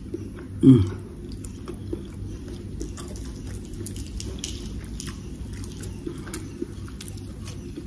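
A person chewing a mouthful of food eaten by hand, with small, faint mouth and lip clicks and a short closed-mouth hum about a second in.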